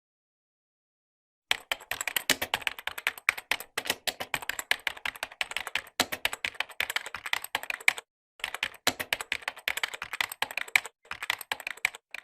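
Computer keyboard typing: rapid, irregular key clicks starting about a second and a half in, with two brief pauses in the typing near the end.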